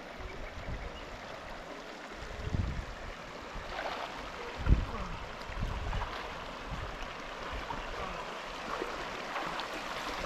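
Warm river water running steadily over its bed, with a few low thumps, the loudest just under five seconds in.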